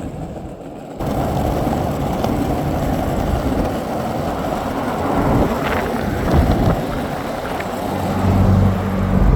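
A BMW's engine and exhaust heard from inside the cabin, running under way. The noise jumps up suddenly about a second in and stays loud, with a steadier engine drone coming through near the end.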